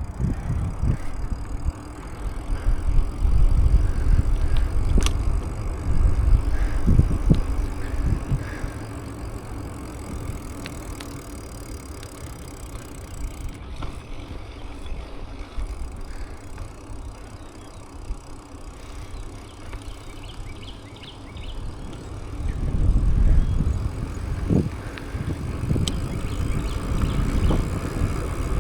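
Bicycle ride heard from the rider's camera: wind rumbling on the microphone over the hiss of tyres on the road. The rumble swells louder for a few seconds early in the ride and again near the end.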